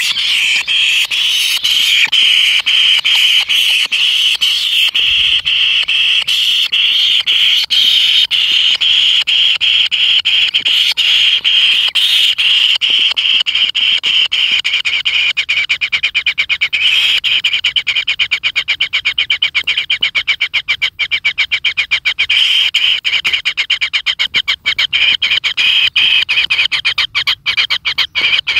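Kingfisher nestlings calling continuously from the nest: a rapid, rasping train of buzzy pulses that runs without a break and becomes more clearly separated pulse by pulse in the second half.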